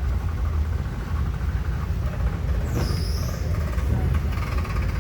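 Low steady rumble of a vehicle engine running, with a brief high squeal that falls in pitch about halfway through.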